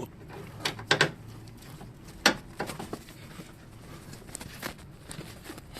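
A handful of short, sharp clicks and knocks at irregular intervals, the loudest about two seconds in, as a pipe lever forces the front anti-roll bar down to seat a new stabilizer link on a Hyundai Sonata LF.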